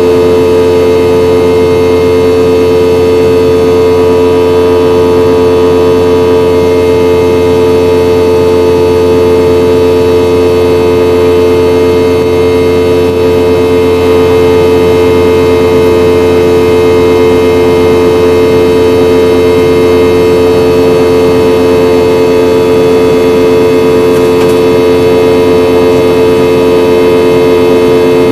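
Boeing 717-200's rear-mounted Rolls-Royce BR715 turbofan engines heard inside the rear cabin: a loud, steady engine drone with a strong hum and a noise of rushing air, unchanging throughout.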